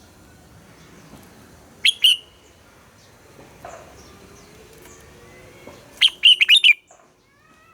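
Red-whiskered bulbul song: two loud, sharp notes about two seconds in, then a quick run of about six loud notes near the end, with fainter chirps in between.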